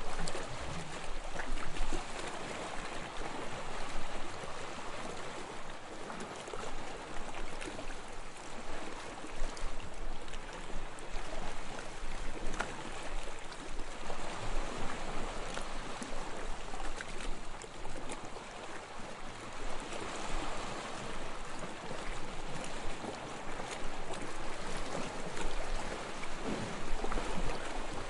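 Small, soft waves lapping on a sandy shore, washing in and out in gentle surges every few seconds.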